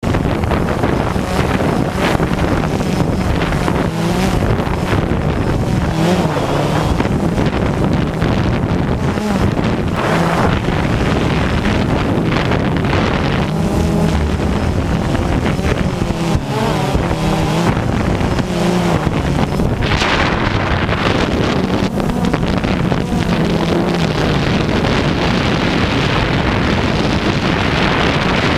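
DJI Phantom 2 quadcopter's motors and propellers buzzing steadily, their pitch shifting up and down as the drone holds against strong gusts. Heavy wind buffets the microphone over it.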